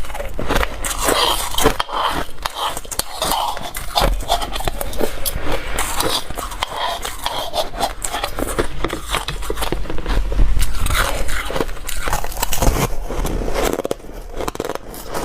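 Close-up biting and chewing of hard, dry ice: dense, irregular crunching and crackling as the ice is cracked between the teeth.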